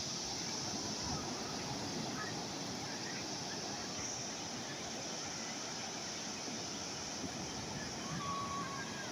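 Steady seaside ambience: the continuous wash of calm sea waves with a high hiss, and a couple of short faint chirps.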